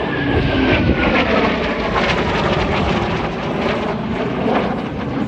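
Eurofighter Typhoon FGR4's twin EJ200 turbofan jet engines roaring loudly in a close display pass, with a whine that falls in pitch over the first couple of seconds as the jet goes by.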